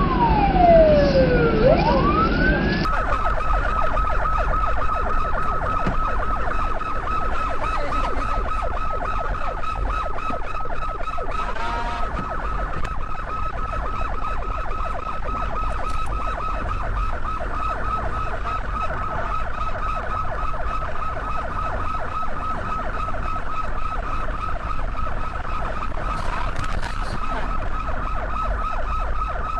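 Police car siren wailing, its pitch sweeping up and down. About three seconds in, it cuts to a siren holding one high tone with a fast, steady pulse that keeps going to the end.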